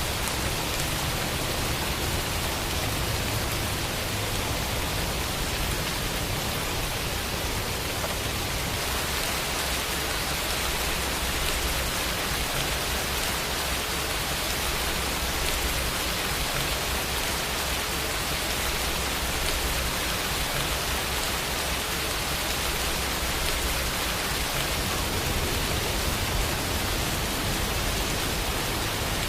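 Steady rainfall, an even hiss of drops with no other sounds.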